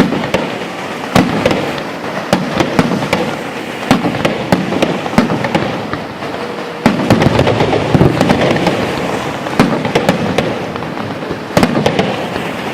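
Fireworks going off: repeated sharp bangs of bursting shells over continuous crackling, growing denser and louder about halfway through.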